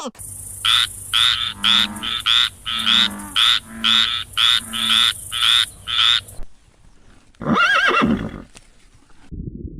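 Animal calls: a run of about a dozen short calls, about two a second, then after a pause one longer call that bends in pitch.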